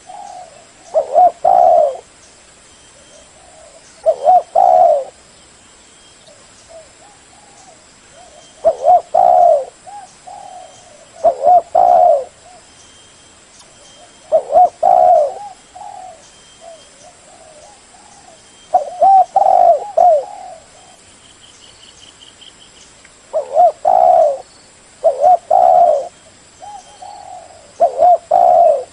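Spotted dove cooing: loud, low, rounded coo phrases repeated about every two to four seconds, with short gaps between them. Faint high chirps can be heard in the background.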